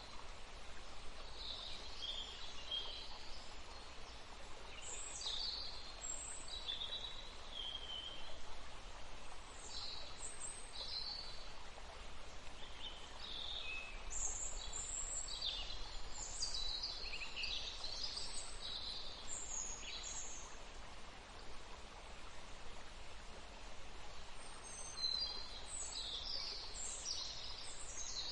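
Steady hiss of running water with small birds chirping and whistling over it in short clusters, busiest in the middle and again near the end.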